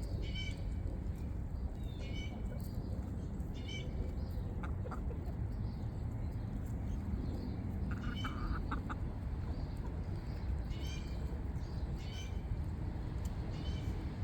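Chickens clucking: short calls repeated every second or few seconds over a steady low rumble.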